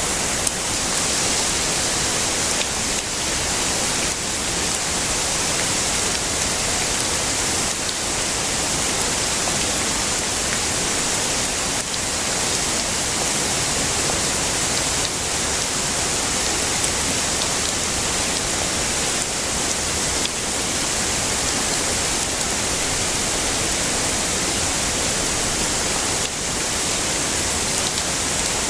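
Heavy rain falling steadily: a dense, even hiss with a few faint ticks of individual drops.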